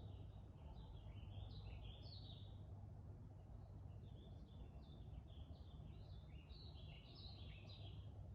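A songbird singing two quick, faint runs of short, sliding chirps, with a brief pause between them, over a steady low rumble.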